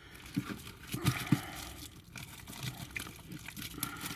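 Packaging rustling as it is handled, with scattered light clicks and taps.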